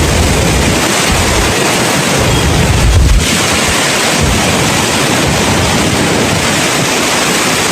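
Severe storm wind and rain making a loud, steady rushing noise, with wind buffeting the microphone in uneven low rumbles and a stronger gust about three seconds in.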